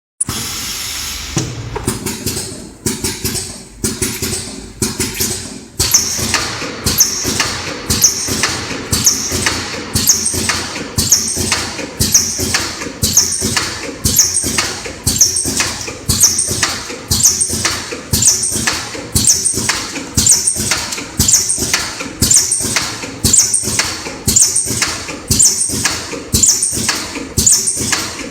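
Automatic stator slot insulation paper inserting machine cycling: a few uneven strokes at first, then a steady rhythm of about one stroke a second, each a sharp clack with a short high hiss.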